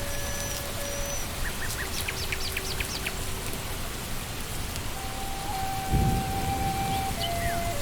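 Steady rain falling on leaves in a forest, with a quick run of bird chirps about two seconds in and a short low rumble about six seconds in.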